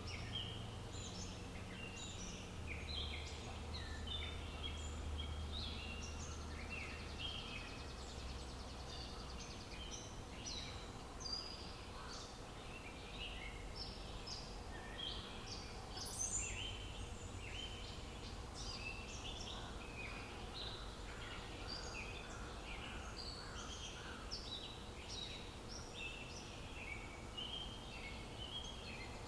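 Many small birds chirping and singing at once, a dense run of short high calls and trills, over a low steady rumble.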